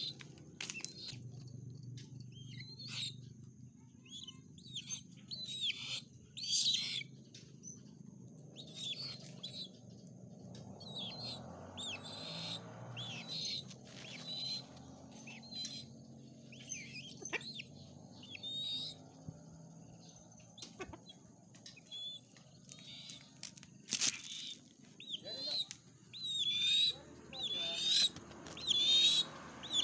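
Birds chirping: short, high, squeaky calls that slide in pitch, repeated throughout and coming several in quick succession near the end, over a faint steady high-pitched tone.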